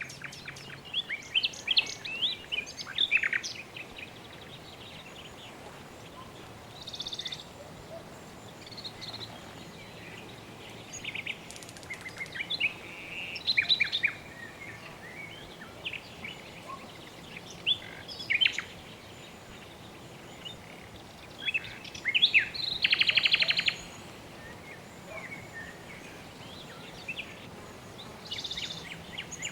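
Birds chirping and calling, with short high chirps scattered throughout. About two-thirds of the way in comes a loud, rapid trill lasting a second or two, and short buzzy calls come once early on and again near the end, all over a faint steady hiss.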